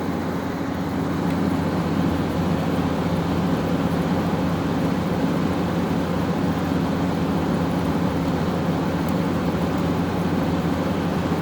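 LG room air conditioner running steadily: a constant hum from the compressor and fan with the rush of blown air.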